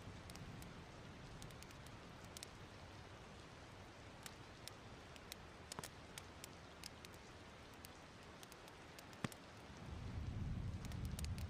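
Wood fire crackling: a steady soft hiss with scattered small pops, one sharper pop about nine seconds in, and a low rushing sound swelling near the end.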